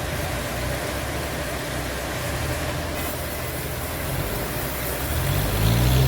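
An engine running steadily at low speed, then speeding up about five seconds in and holding at the higher speed.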